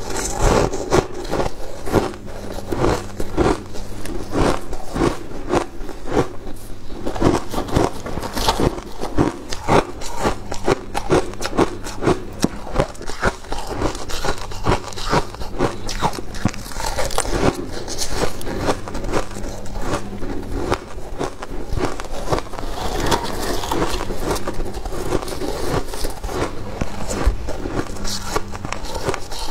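Freezer frost crunching close up as it is bitten and chewed: a dense, continuous run of crisp crunches and crackles.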